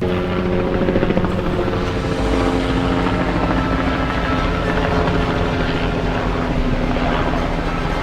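Firefighting helicopter's rotor chopping steadily, with a continuous droning tone under it.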